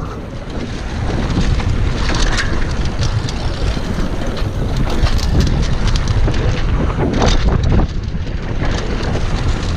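Downhill mountain bike running fast down a dirt trail: steady wind rush over the microphone and tyres on dirt, with scattered knocks and rattles from the bike hitting bumps.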